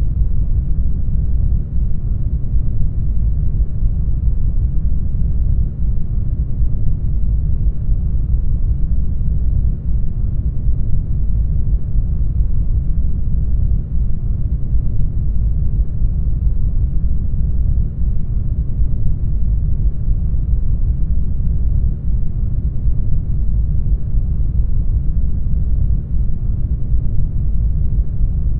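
Brown noise: a steady, deep rushing hiss with most of its weight low down, unchanging throughout.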